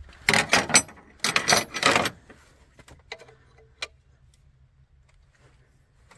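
Metal hand tools clinking and rattling against each other in two short bursts, then a few scattered clicks.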